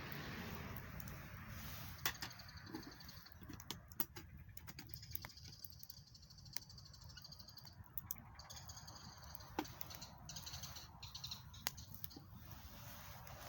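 Wood campfire crackling, with sharp pops every second or two over a low rumble and a high hiss that comes and goes.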